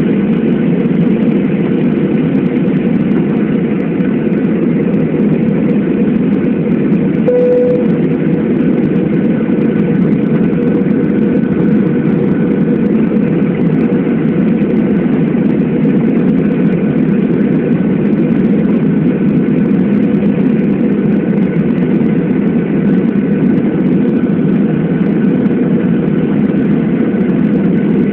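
Jet airliner cabin noise during landing: a loud, steady drone of engines and airflow heard from inside the cabin, with a brief tone once, about a quarter of the way in.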